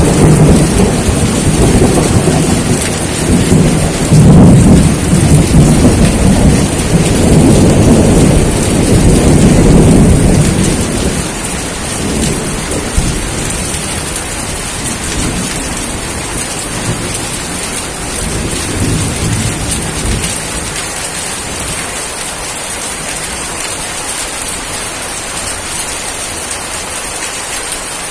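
Steady rain with a long roll of thunder that rumbles for the first ten seconds or so and then dies away, leaving the rain's even hiss.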